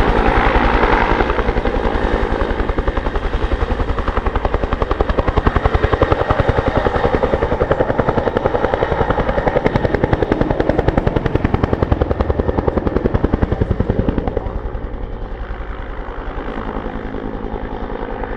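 Helicopter flying nearby, its rotor beating in a fast, even rhythm. It grows somewhat quieter about fourteen seconds in, as it moves off.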